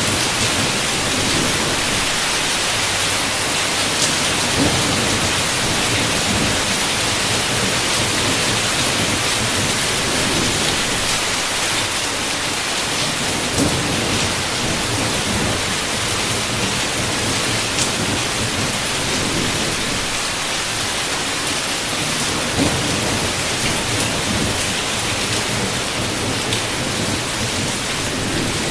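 Heavy rain falling steadily against a window, with low rumbles of thunder and a few sharper drop hits standing out, about every nine seconds.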